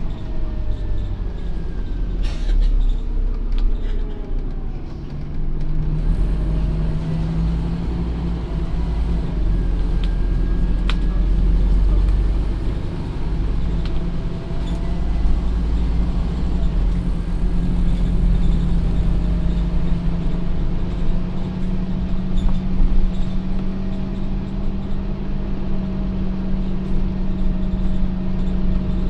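Scania OmniCity N230UD double-decker bus's five-cylinder diesel engine running under way. The engine note steps up about six seconds in and holds steady, with faint whining tones rising and falling above it.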